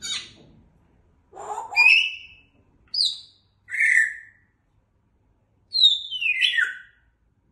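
A pet parrot chirping and whistling in about five short, separate calls with pauses between them; the last call, near the end, falls in pitch.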